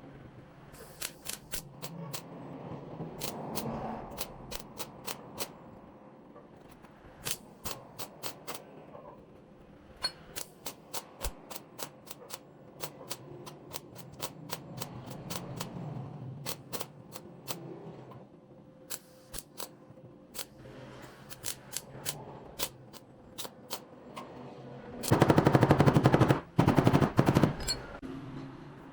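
Sharp, irregular taps and knocks of tool work, then near the end a loud burst of very rapid hammering lasting a few seconds, which breaks off briefly and resumes.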